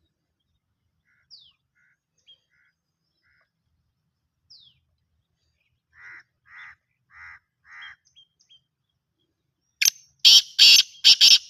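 Black francolin calling: a loud, harsh call of about five quick notes near the end. Fainter bird notes come before it, two short falling whistles and then four evenly spaced notes.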